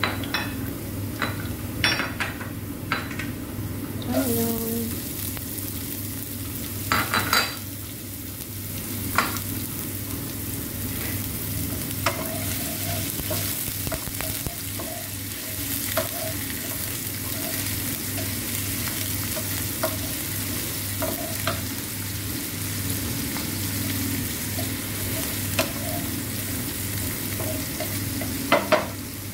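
Chopped garlic and diced onion sizzling in hot oil in a frying pan, stirred with a wooden utensil that clicks and scrapes against the pan. There is a cluster of louder knocks about seven seconds in.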